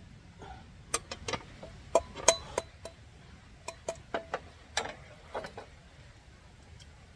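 A run of sharp clinks and knocks from hard objects being handled, several ringing briefly, in uneven bursts that stop about two seconds before the end.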